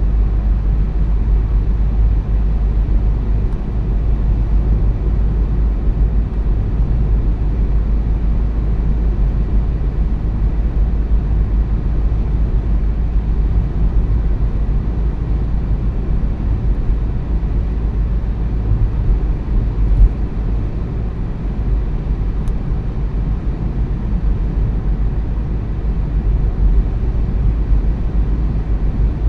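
Steady low rumble of a car's road and engine noise heard from inside the cabin while driving, with a single short knock about twenty seconds in.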